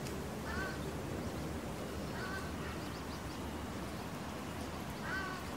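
A bird giving short calls three times, a few seconds apart, over a steady outdoor background hiss.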